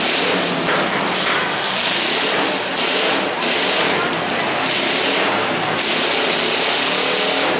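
Demolition derby cars' engines running and revving, surging up and down every half second or so, with crowd voices mixed in.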